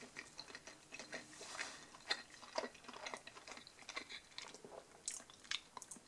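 A person chewing a mouthful of thin pizza crust: a faint, irregular run of small clicks and smacks.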